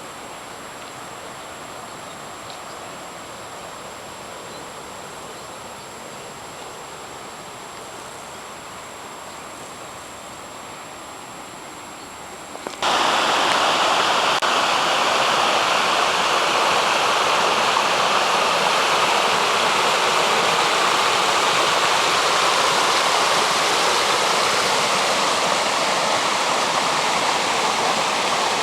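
Rainwater running through a wadi after heavy rain, a steady rush of flowing water. About halfway through it suddenly becomes much louder and fuller.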